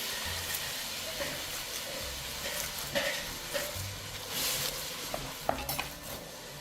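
Food sizzling as it fries, a steady hiss with scattered clicks and light scrapes.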